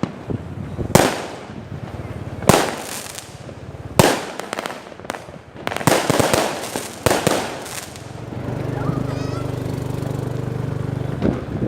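Fireworks going off: single sharp bangs about every one and a half seconds, then a quicker cluster of several. Near the end a steady low hum runs for about three seconds.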